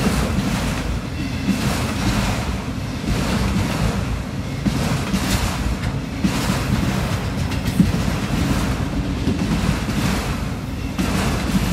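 Long CSX autorack freight train rolling past: a steady rumble of steel wheels on the rails with a rushing hiss that swells and fades.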